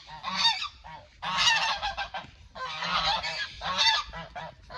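Several domestic geese honking together in loud, overlapping bursts, coming in clusters with short lulls between them.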